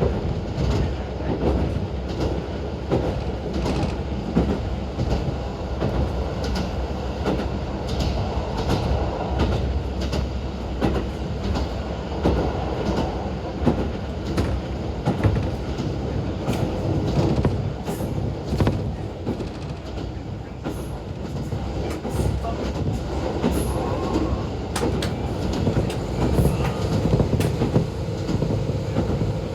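Inside the cabin of a JR Hokkaido KiHa 40 diesel railcar running along the line: a steady diesel engine and running noise, with wheels knocking over rail joints.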